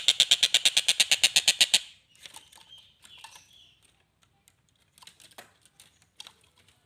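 Kingfisher calling a rapid, even series of harsh notes, about ten a second, that stops about two seconds in; after that only faint scattered clicks and short chirps.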